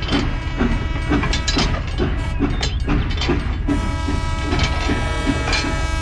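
A battery-powered toy steam locomotive running on plastic track, making a rhythmic chugging at about three beats a second. About two-thirds of the way in, a steady held tone joins in.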